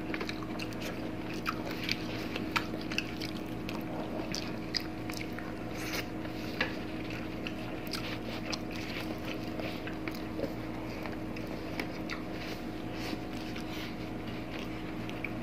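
Close-miked chewing with frequent wet mouth smacks and clicks as two people eat fried fish, rice and vegetables by hand, over a faint steady hum.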